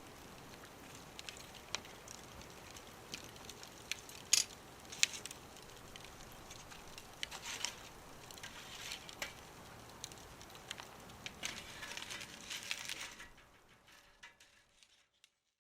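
Wood fire crackling, with irregular sharp pops over a soft hiss; it fades out in the last couple of seconds.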